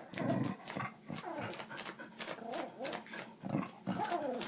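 Yorkshire terrier making a rapid, uneven string of short whining, huffing noises, like a car engine cranking over without catching.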